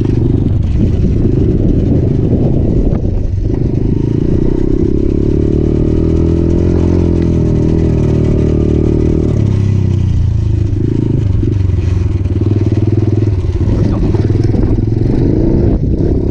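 Motorcycle engine running under way, loud and close; the revs hold steady through the middle, then change and waver after about ten seconds.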